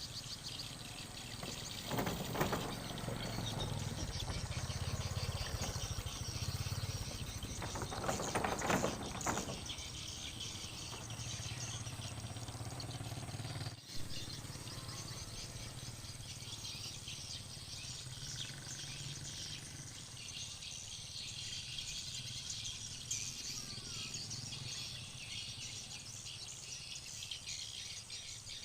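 Many swiftlets chirping and twittering in a dense, continuous chatter around a swiftlet house. Beneath it runs a low steady hum, and two louder swells of noise come about two and eight seconds in.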